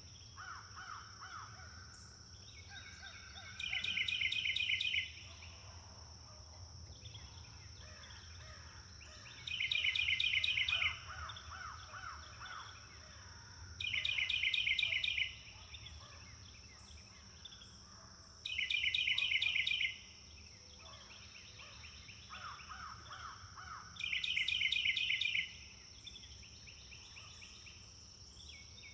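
Forest birdsong: one bird repeats a loud, rapid trill five times, each lasting about a second and a half, with fainter chirps from other birds in between. A steady high-pitched whine runs underneath.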